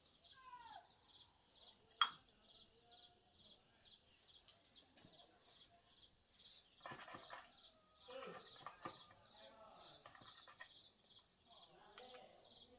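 Insects chirping in a steady, fast pulsing rhythm, with faint bird calls. A single sharp click comes about two seconds in, and brief clattering follows around the middle.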